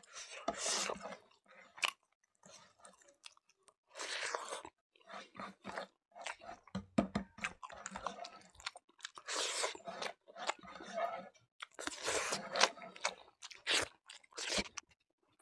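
A man chewing and crunching a mouthful of rice, eaten by hand, close to the microphone, in irregular bursts with short pauses.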